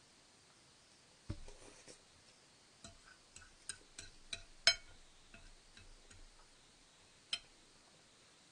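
Close-miked ASMR eating sounds of someone chewing spaghetti: a soft thump about a second in, then a run of short, sharp, wet clicks and taps, the loudest near the middle, and one last click near the end.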